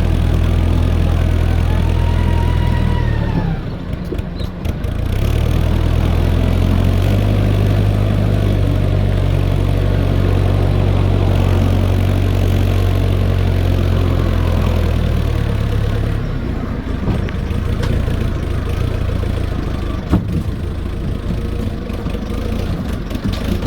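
Fordson E27N tractor's Perkins P6 six-cylinder diesel engine running, the engine note dipping briefly about three seconds in, steady again, then rougher over the last several seconds.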